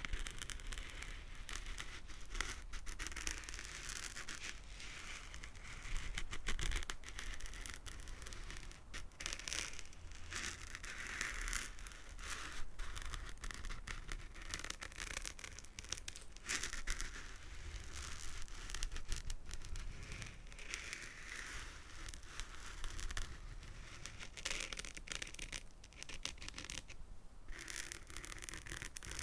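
Fingernails rapidly scratching and tapping close to the microphone, a dense run of tiny crisp clicks and scratchy rustling.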